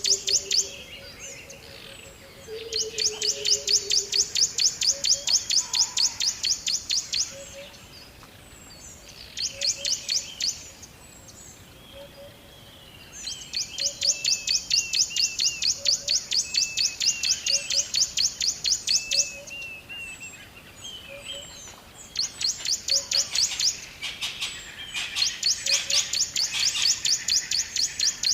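A bird chirping in long, fast series of quick repeated high notes, several a second, in bouts of a few seconds with short pauses between them, while other birds call more softly.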